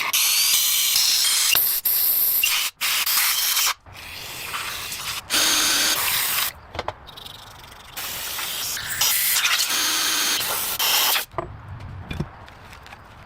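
Several loud bursts of hissing spray from a spray or compressed-air tool, each a second or two long with short breaks between them, stopping about eleven seconds in.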